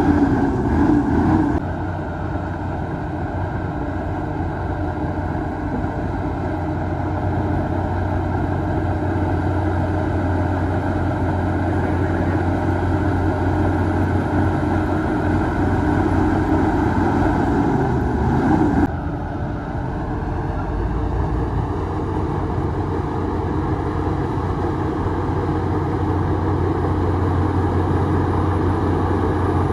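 Heavy diesel engine of a bulldozer pushing fill, a steady drone with a strong low hum. The sound shifts abruptly twice, once near the start and once about two thirds of the way through.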